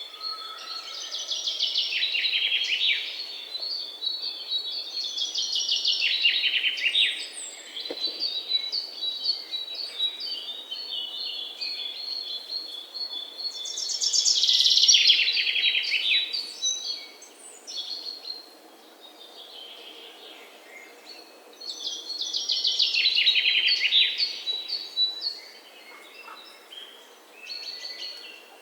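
A songbird singing the same song over and over: four phrases several seconds apart, each a fast run of notes falling in pitch over two to three seconds. Fainter chirps from other birds fill the gaps.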